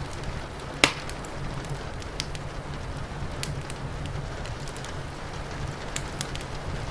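Wood fire crackling over a steady wash of rain, with scattered small pops and one sharp, loud crack about a second in.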